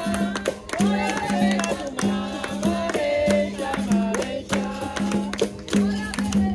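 Capoeira roda music: a berimbau-led ensemble with hand percussion and voices singing over a steady, repeating rhythm.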